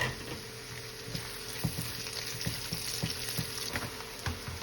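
Freshly added onions sizzling in hot oil in a frying pan along with garlic, ginger and sausage, with a utensil stirring and knocking against the pan many times.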